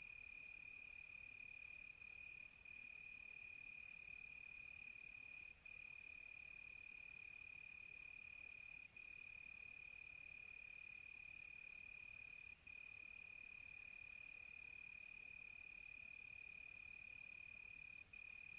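Crickets trilling: a steady, unbroken high-pitched note. A second, higher and faster-pulsing insect trill joins about two seconds in and drops out a few seconds before the end.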